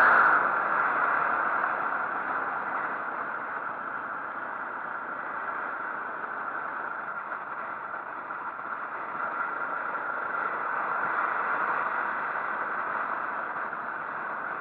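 Motorcycle on the move: steady engine and rushing wind noise, loudest at the start and easing off over the first couple of seconds.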